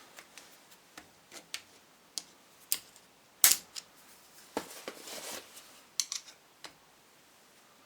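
Irregular small metallic clicks and taps, with a louder click about three and a half seconds in and a brief scrape around five seconds, as a starter motor's brushes are worked onto the commutator with a screwdriver.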